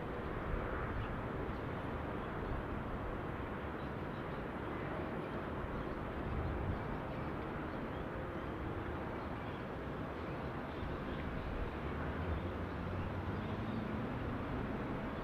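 Steady, distant rumble of a Boeing 747-400's jet engines as it flies over a city, heard as an even low noise without sharp events.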